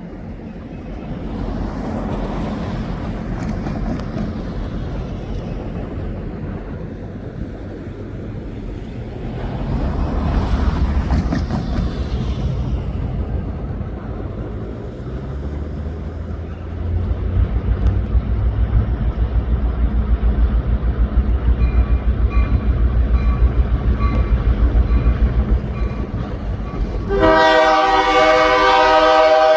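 Diesel locomotive approaching, its engine rumble growing louder partway through, then the locomotive's air horn sounding loudly near the end.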